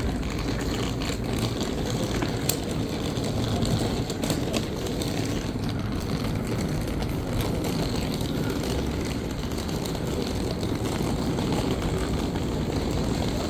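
Steady rumble and running noise of a train in motion, heard from inside the carriage, with a few faint clicks.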